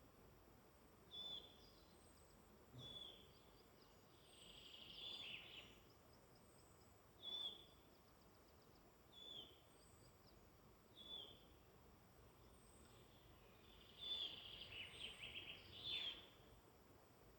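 Faint woodland birdsong: one bird repeats a short whistled note every couple of seconds, while two longer, rapid twittering songs come in, one about four seconds in and one near the end, with thin high notes above.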